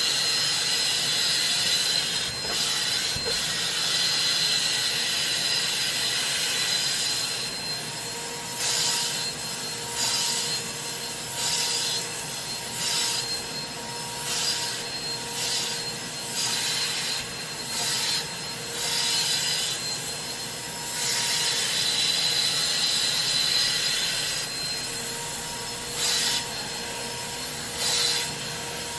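Carpet-cleaning extractor's vacuum running with a steady hissing whine. From about a third of the way in, and again near the end, it surges and drops about once a second, as the wand is stroked across the fabric.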